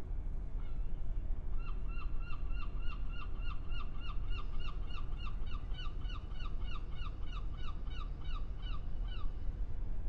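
A bird calling in a fast run of short, identical notes, about three a second, starting a couple of seconds in and stopping near the end. Underneath is a steady low rumble of harbour background.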